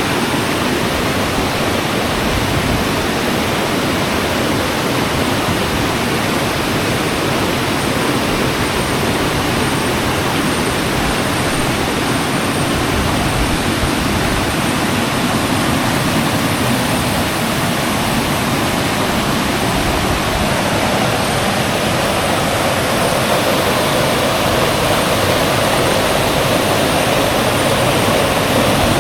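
Shallow rainforest river rushing over rocks and small cascades: a loud, steady, unbroken rush of water.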